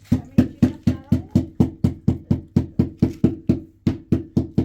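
Rapid, even knocking, about four strikes a second, each strike with a short low ring, with a brief pause a little before the end.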